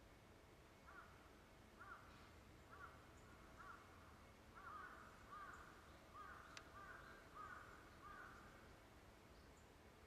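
A bird calling in the distance: a long series of short repeated calls, about one a second at first, then quickening to about two a second before stopping some two seconds before the end. A single faint click comes partway through.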